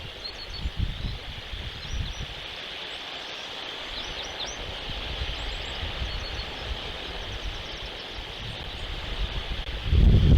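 Small birds chirping in short thin high notes over a steady hiss, with wind buffeting the microphone in gusts, strongest just before the end.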